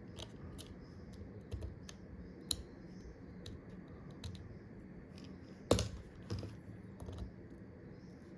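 Small tools and parts clicking and tapping against an iPhone XR being taken apart, scattered irregular ticks with one sharper knock a little under six seconds in.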